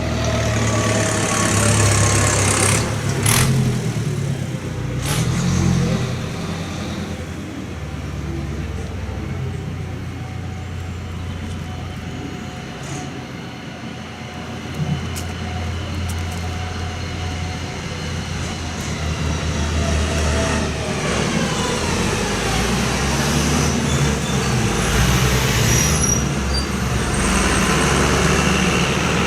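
Tractor engines running, a deep steady engine note that swells louder near the start and again in the last few seconds. Two sharp clicks come about three and five seconds in.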